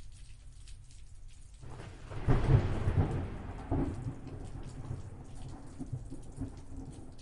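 Thunderstorm: rain falling with single drops heard, and a thunderclap that builds about two seconds in. It is loudest for about a second, with a second jolt just after, then rolls off into a low rumble under the rain.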